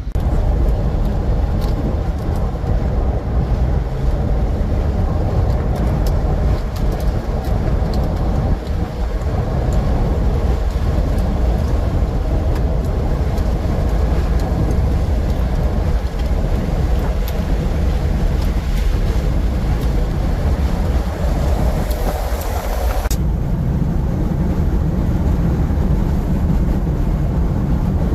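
Steady road noise inside a moving car's cabin: a low rumble of tyres and engine with a broad hiss. Near the end the hiss drops away and the low rumble comes forward.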